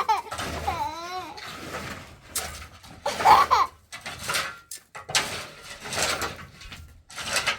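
A young child's voice babbling and laughing in short bursts, mixed with scattered knocks and rustling.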